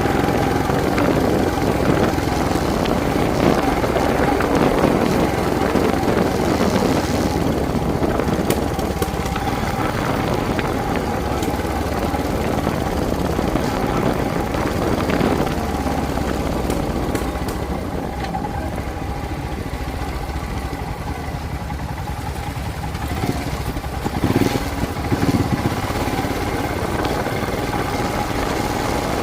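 Motorcycle engine running steadily while riding, with a steady tone over a rushing noise.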